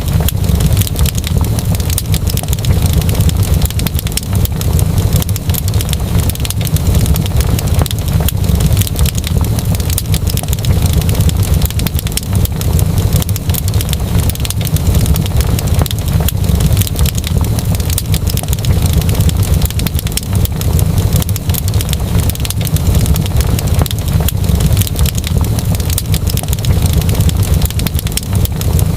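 Wood fire burning in a fireplace, a steady low rumble with many small crackles and pops scattered throughout.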